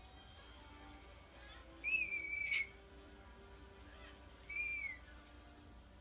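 Green-cheeked conure giving two whistled calls: the first about two seconds in, held for over half a second and cut off sharply, the second near the end of the middle, shorter and falling in pitch.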